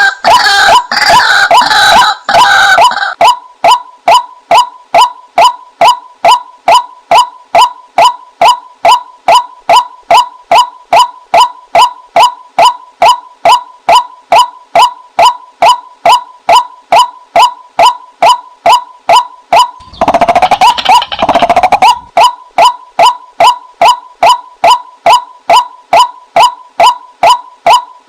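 White-breasted waterhen calls, played as a female decoy call: a steady run of short, evenly spaced 'kwak' notes at about three a second, broken by louder, harsher bursts of calling at the start and again about twenty seconds in.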